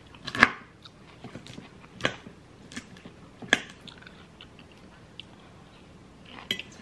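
Close-miked crunchy chewing of a chopped salad, with many small crackles. About four sharper clicks stand out, the loudest about half a second in.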